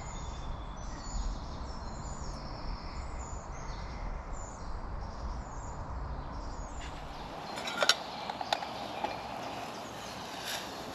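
Small woodland birds chirping and calling over a steady low rumble, with a few sharp clicks or knocks about eight seconds in and once more near the end.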